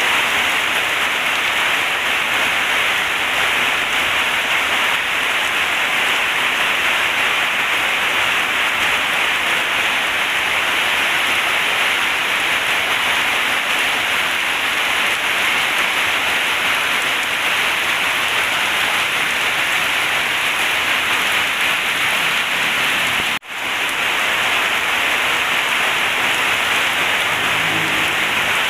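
Heavy rain falling steadily on a corrugated zinc roof, a dense, even hiss. The sound cuts out for an instant about 23 seconds in, then carries on.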